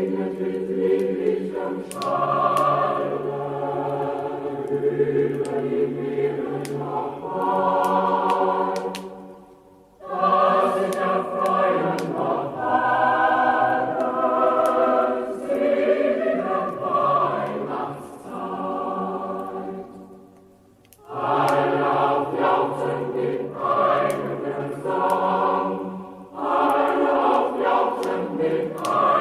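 Choir singing a Christmas song in long held phrases, breaking off briefly twice between phrases.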